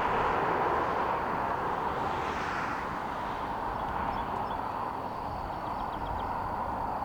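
Jet noise from a Boeing P-8A Poseidon's twin CFM56 turbofans, a steady rushing rumble that slowly fades as the aircraft moves away.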